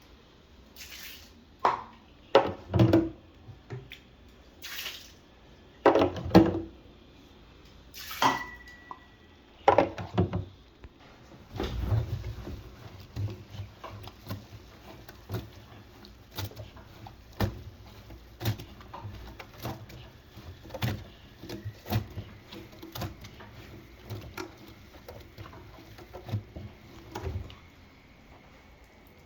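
Irregular knocks, clicks and clatter, with water dripping and splashing among them. The knocks are louder and more spaced in the first ten seconds. From about twelve seconds in come many smaller clicks over a low steady hum.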